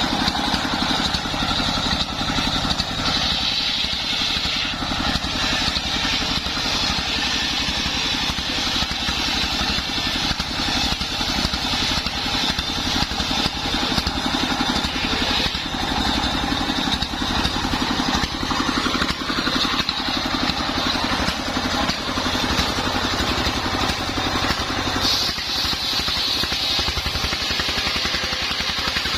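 The engine of a homemade circular saw rig running steadily, with a higher steady hiss above it.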